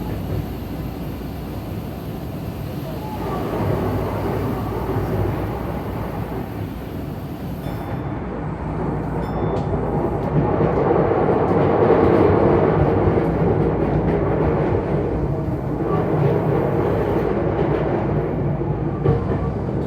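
Tokyu Den-en-toshi Line electric commuter train running, heard from inside the front car: a steady rumble of wheels on rails that grows louder toward the middle and then eases slightly.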